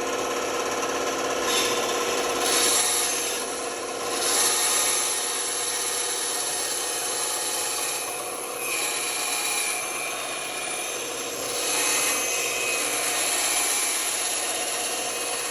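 Band saw running with a steady motor hum while its blade cuts through wood, the cutting noise swelling and easing several times as the workpiece is fed and turned.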